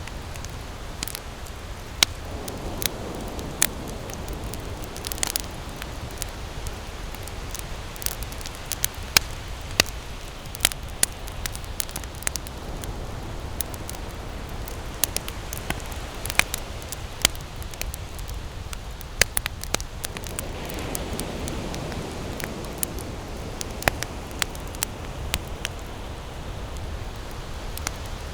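Wood campfire burning, with frequent sharp, irregular crackles and pops over a steady hiss.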